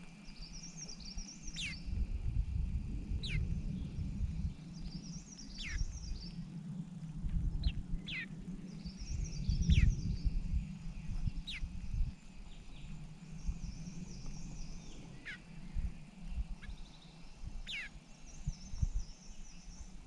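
Birds calling: short, high, wavering trills every few seconds and many thin calls that fall sharply in pitch. An irregular low rumble runs underneath.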